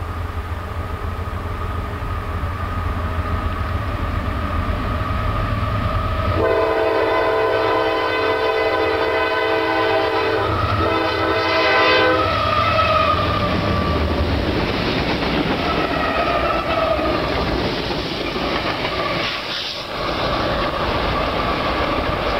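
CSX freight train running past with a steady low rumble of rolling wheels. About six seconds in, a locomotive air horn sounds a chord for about six seconds, broken once briefly, then the train rumble carries on.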